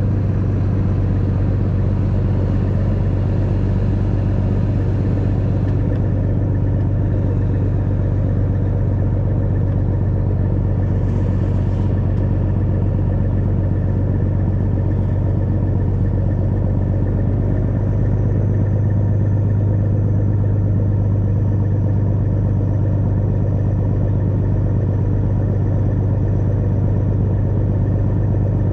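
Tow truck engine running steadily while driving, a constant low drone with no change in pitch.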